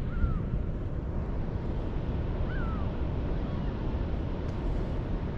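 Steady low rushing noise of water flowing out of an open dam, mixed with wind on the microphone. Two faint short chirps slide down in pitch, one at the start and one about two and a half seconds in.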